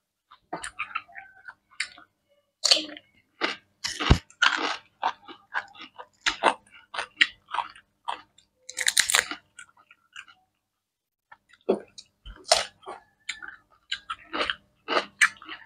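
Close-miked chewing and crunching of raw cucumber slices and grilled octopus, in many short, irregular crunches. It stops briefly about ten seconds in.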